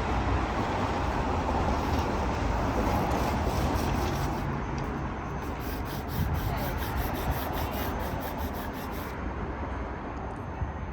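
Steady low rumble of a cammed, 3-inch straight-piped Chevrolet Impala SS LS4 V8 with road noise as the car drives, easing slightly near the end.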